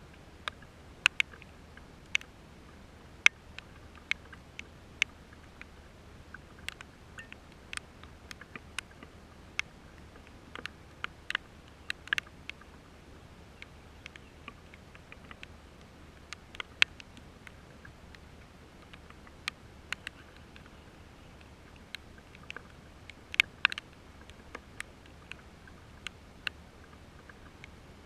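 Raindrops tapping close to the microphone: sharp, irregular ticks, sometimes several a second, over a low steady hiss.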